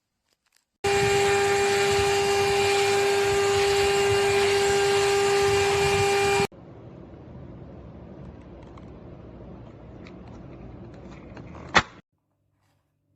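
Vacuum cleaner motor running with a steady whine over a rushing airflow. It starts abruptly about a second in and stops abruptly after about five seconds, leaving a much quieter hiss with a sharp click near the end.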